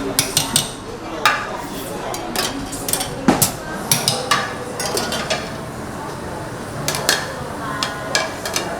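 Kitchen clatter: irregular sharp knocks and clinks of utensils and dishes, about a dozen over several seconds, over steady restaurant room noise.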